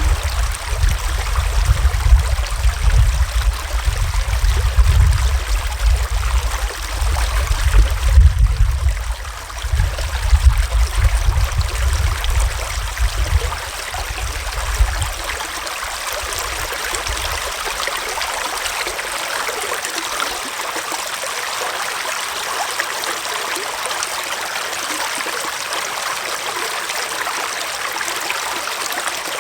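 Small forest stream flowing steadily over stones, an even rushing and trickling of water. A low, uneven rumble lies under the water for the first half and dies away about halfway through.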